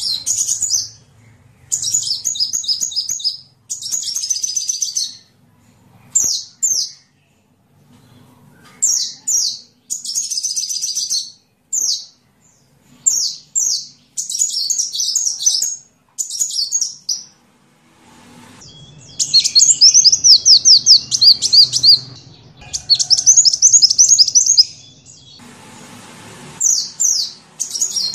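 A sunbird singing: short bursts of high, rapid, trilling chirps with brief pauses between phrases. About two-thirds of the way through comes a longer, louder run of fast repeated notes.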